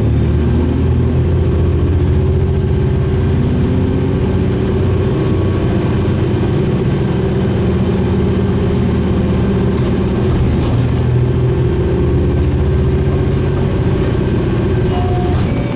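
Diesel railcar engine running under way, a steady drone whose pitch drifts slightly up and down.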